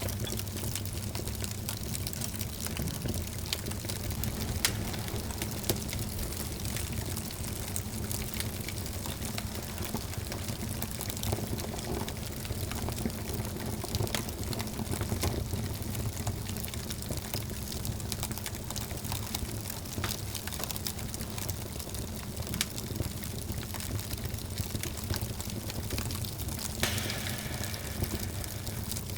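Wood fire burning in a fireplace, a steady rush of flame with frequent sharp crackles and pops from the logs; a higher hiss sets in near the end.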